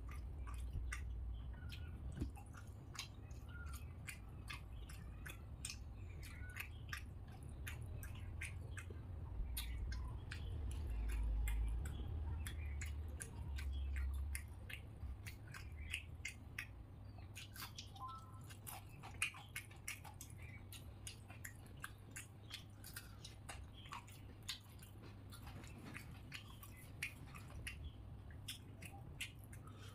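Close-miked chewing and mouth sounds of a man eating pulao rice by hand: many small wet clicks and smacks. A low rumble runs underneath and swells for a few seconds midway.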